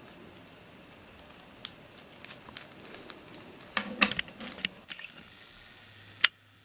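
Light clicks and rustling of plastic twisty puzzles being handled and set down, with a short flurry of clicks about four seconds in and one sharp click near the end.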